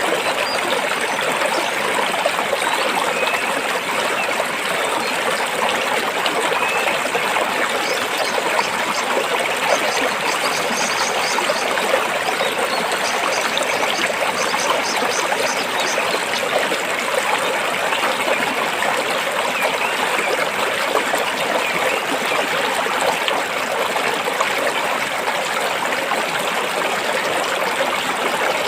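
Stream water flowing and splashing over rocks in a steady, unbroken rush.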